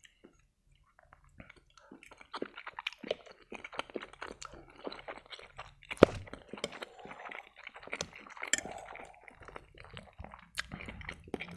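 Close-miked chewing of boiled pelmeni dumplings: wet mouth smacks and chewing, mixed with metal fork clicks against the plate. It starts about a second and a half in, and one sharp, loud fork click comes about six seconds in.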